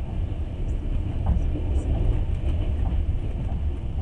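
Passenger train running on the rails, heard from inside the carriage as a steady low rumble.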